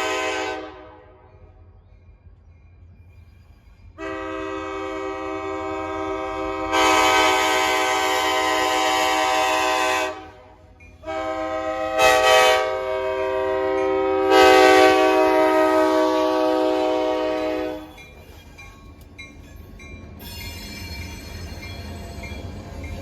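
Locomotive's Nathan K5LA five-chime air horn sounding a chord: one blast ending about half a second in, then after a pause a long blast of about six seconds, a brief break, and another long blast that swells twice. After that the horn stops and the train rumbles past.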